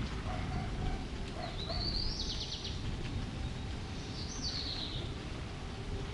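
A songbird sings two short high phrases, one about two seconds in and another about four and a half seconds in, over a steady hiss of outdoor background noise.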